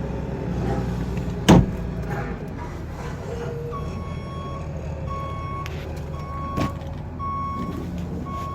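A single loud knock, then a few seconds in an electronic warning beep starts, one steady tone repeating about once a second, over a low steady rumble.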